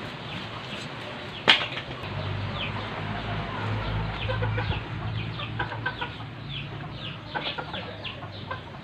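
Chickens clucking and chirping in quick short calls. There is a single sharp knock about a second and a half in, and a low hum for a few seconds after it.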